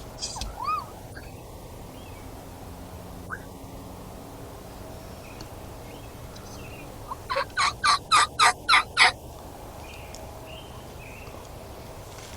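A series of about eight turkey yelps, roughly four a second and growing louder, over about two seconds in the middle. It is a hen-style yelp sequence used to call to a tom, with a short chirping bird call near the start.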